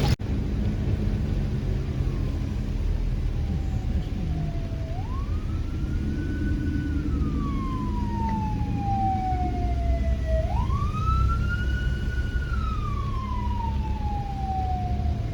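Emergency vehicle siren wailing: it rises quickly in pitch, holds, then falls slowly, repeating about every five and a half seconds over a steady low rumble of road traffic.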